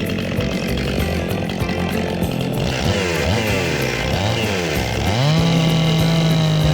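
Husqvarna 262XP two-stroke chainsaw running, its engine pitch rising and falling several times, then held at a steady high pitch at full throttle from about five seconds in.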